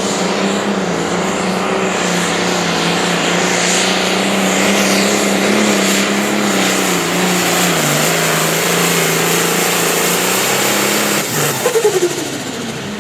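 Engine of a competition pulling vehicle running at full throttle under load, a steady loud drone with heavy exhaust noise. The pitch sags a little about eight seconds in, and near the end the engine winds down.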